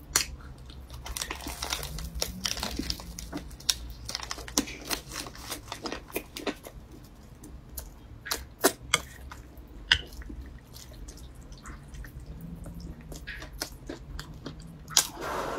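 Close-miked chewing of a mouthful of deep-fried sesame flatbread, with irregular crisp crunches. The crunches come thick over the first ten seconds or so, then thin out.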